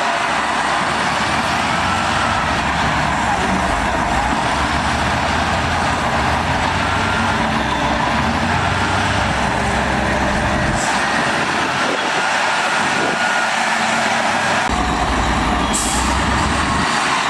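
Heavy diesel earthmoving machinery working, a loud steady mechanical din with a low engine rumble and faint thin squeals running through it. The low rumble drops out for a few seconds past the middle, then returns.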